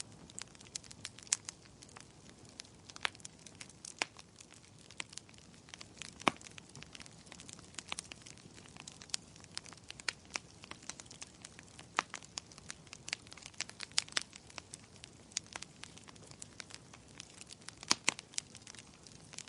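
Firewood burning in a fireplace: irregular crackles and sharp pops over a soft steady hiss, with a few louder snaps standing out.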